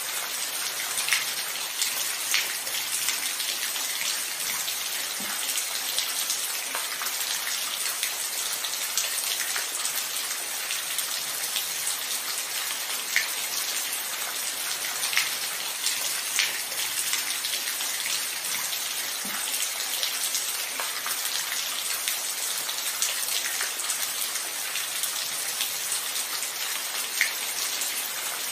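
Steady rainfall, a hiss of rain with scattered individual drops ticking sharply on a hard surface.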